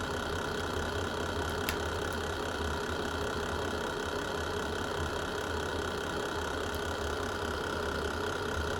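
Wood fire burning in a fireplace: a steady low rumble and hiss of the flames, with one sharp crackle about two seconds in and a few faint pops.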